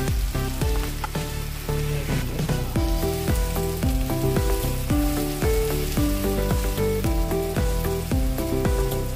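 Chicken pieces sizzling in hot oil in a frying pan as they are stirred with a spatula together with chopped coriander and mint leaves. Background music with a stepping melody and bass plays throughout.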